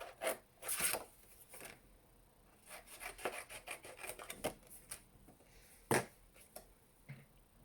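Scissors cutting through glossy card: a run of short, irregular snips and rasps, with one louder cut about six seconds in.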